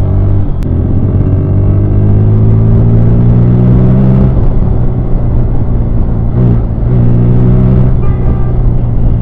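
Bajaj Pulsar N160's single-cylinder engine under acceleration: its pitch climbs steadily for about four seconds, drops back at a gear change, then holds fairly steady with another brief dip a couple of seconds later.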